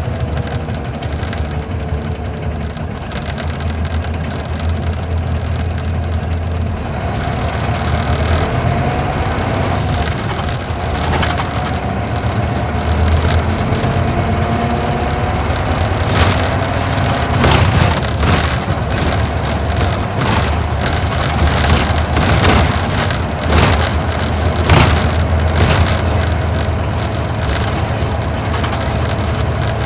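Isuzu Gala coach's V-type diesel engine running under way, heard from inside the cabin, its pitch rising and falling with speed. From about ten seconds in, frequent sharp knocks and rattles sound over the engine.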